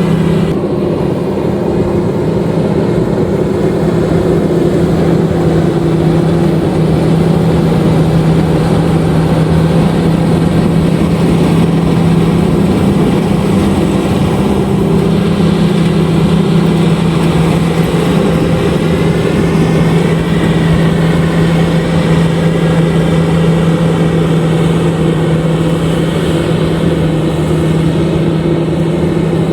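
LOVOL RG130EVO combine harvester running steadily under load while harvesting rice: a continuous engine and machinery drone with a strong low hum that holds steady.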